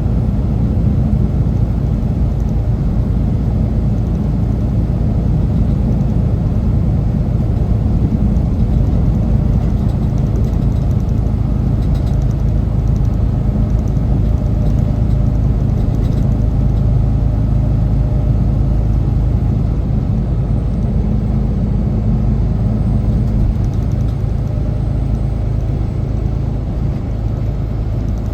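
Semi truck's diesel engine and road noise heard from inside the cab: a steady low rumble and drone.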